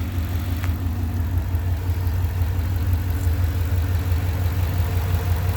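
Freshly rebuilt Ford Coyote 5.0 V8 idling steadily on one of its first runs, with an even low, pulsing rumble.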